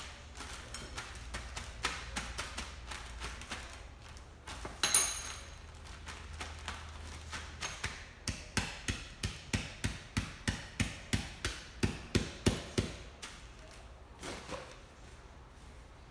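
Repeated blows crushing hot buffalo wing pretzels inside a bag into crumbs: light, uneven knocks at first, one loud hit about five seconds in, then a run of heavy, even strikes at about three a second that stops abruptly.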